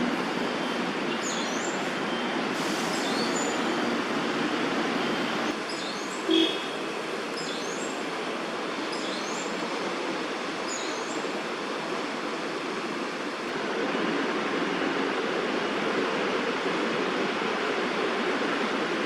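Steady traffic-like city hum, with faint high chirps of small birds scattered through and one brief louder tone about six seconds in.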